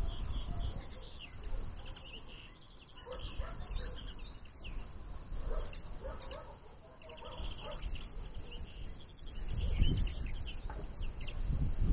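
Small songbirds chirping and twittering, many short high calls in quick succession, over a low rumble that grows louder near the start and again from about ten seconds in.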